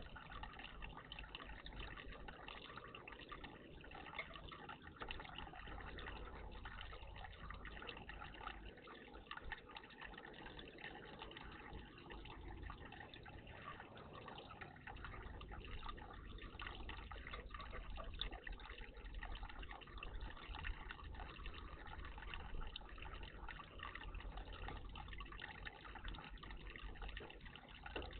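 Water trickling steadily in a bird bath, a soft continuous splashing.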